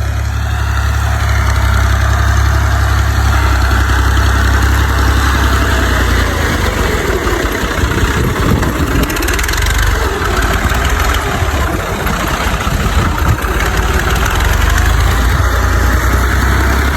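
Tractor engine running close by, loud and steady, its low drone easing for a few seconds in the middle before settling back.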